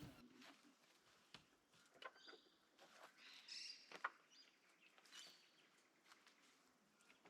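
Faint bird calls and chirps, with a few light taps, the sharpest about four seconds in.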